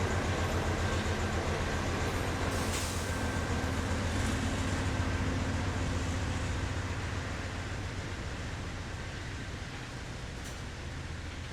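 CSX diesel freight locomotives running with a steady low engine drone, growing fainter over the last few seconds as the train moves away.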